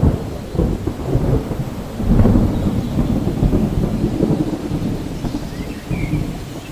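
Thunder rumbling over steady rain: a sharp crack at the start, a second loud rumble about two seconds in, then a long low roll that slowly fades.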